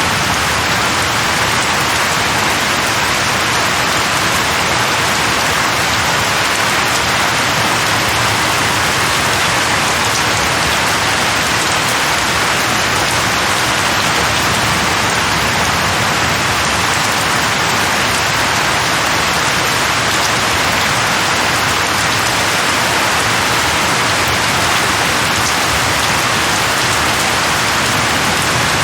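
Steady, even rain falling on leaves, with no thunder or other events.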